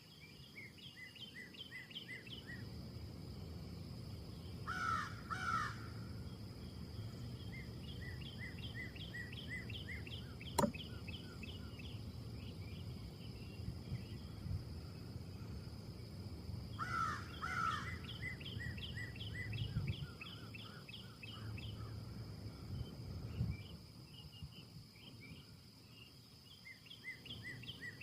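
Wind gusting through trees, rising and easing, with birds calling over it: runs of quick repeated chirps, and two louder pairs of harsh calls, once about five seconds in and again about seventeen seconds in. A single sharp click comes near the middle.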